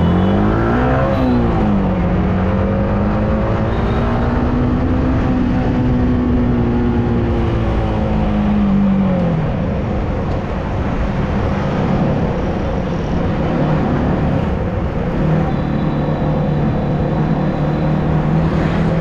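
Yamaha R15M motorcycle's single-cylinder engine under way: it revs up and drops pitch at a gear change a second or so in, holds and swells slightly, then eases off around nine seconds and settles to a lower steady note. A steady rush of riding noise runs underneath.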